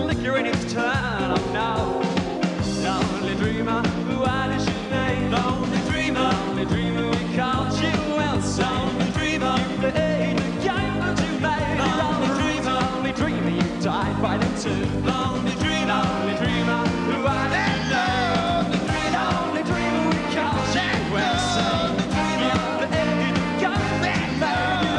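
Rock song playing steadily with drums and bass, and a bending melody line over them, without clear words.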